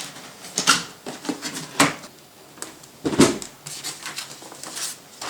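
Packaging of an RC toy box being handled and opened: a few short knocks and rustles, the loudest just past three seconds in.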